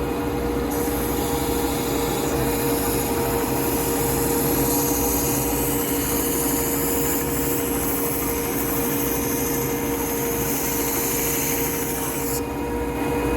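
Belt sander running steadily, with the hiss of two stacked wooden pieces being sanded together against the belt from about a second in until shortly before the end.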